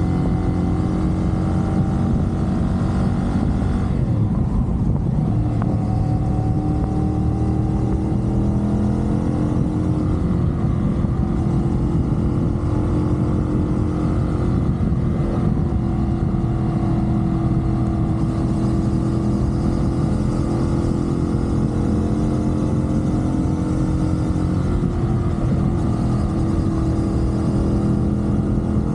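CFMoto 450SR parallel-twin engine running at road speed under the rider, with steady wind rush. The engine note slowly rises and falls in pitch, and drops briefly about four seconds in before picking up again.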